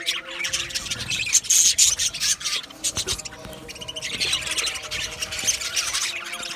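A flock of budgerigars chattering and squawking in a dense, rapid warble, with louder bursts about a second and a half in and again around four to five seconds in.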